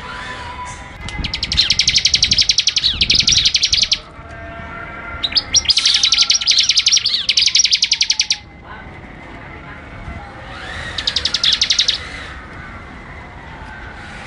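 Songbird singing three loud bursts of a very fast, even, high trill, each lasting one to three seconds, with fainter chirps and a slow falling whistle from other birds between them.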